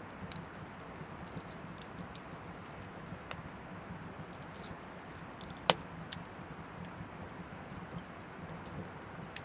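Oak firewood burning in a small wood stove: a steady soft fire noise with scattered light crackles, and one sharp loud pop a little over halfway through, followed by a smaller one.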